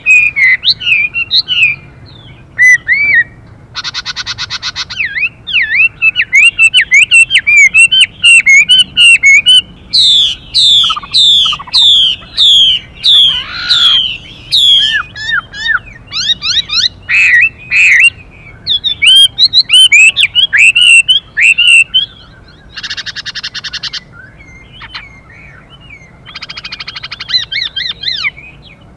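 Chinese hwamei singing a fast run of whistled notes that slide up and down, with changing phrases. Harsh, buzzing rasps break in once about four seconds in and twice near the end: the female hwamei's 'xùy' call.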